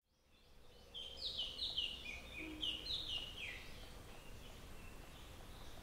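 Birdsong: a quick run of short chirps, each falling in pitch, starting about a second in and fading after about four seconds, over faint background noise.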